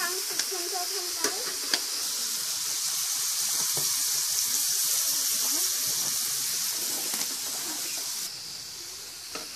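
Food sizzling steadily in hot oil in a steel wok, a dense high hiss, with a few sharp clicks of a spatula against the wok in the first two seconds. The sizzle drops in level about eight seconds in.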